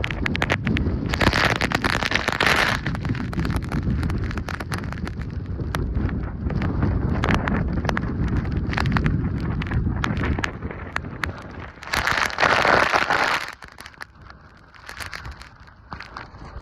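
Gale-force gusty wind buffeting the microphone: a deep rumble with crackling, and two louder hissing rushes, one about a second in and one around twelve seconds. The wind eases near the end.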